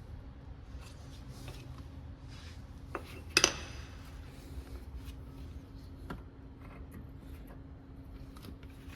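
Metal tools and parts clinking during hand work on a car's brake assembly, with scattered light clicks and one sharp, ringing metallic clank about three and a half seconds in, over a steady low hum.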